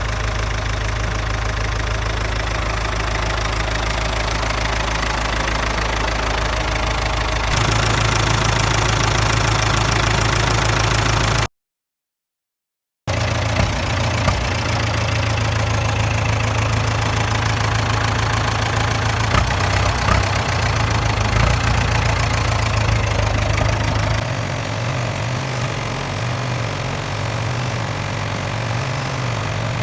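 Tractor engine running steadily, getting louder about a quarter of the way in. The sound cuts out completely for about a second and a half just over a third of the way in, then the engine runs on and eases slightly near the end.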